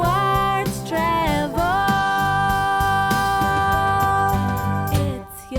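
Upbeat children's show theme song: voices singing over instrumental backing, settling into one long held note for the second half and then breaking off about five seconds in.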